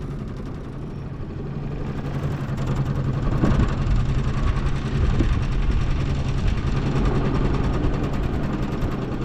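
Small boat's outboard motor running underway, growing louder over the first three or four seconds and then holding steady.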